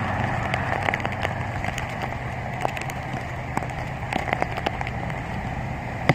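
Typhoon rain and wind noise with many scattered sharp ticks and knocks, over a low steady hum.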